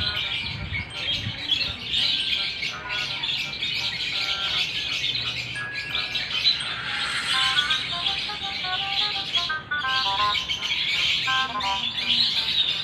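A dense, steady chorus of small birds chirping, with a light melody of short notes playing over it from about halfway through.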